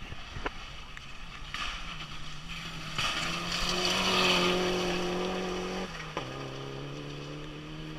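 Competition car passing at speed. Its engine note grows louder over a few seconds, drops in pitch as it goes by about six seconds in, then fades.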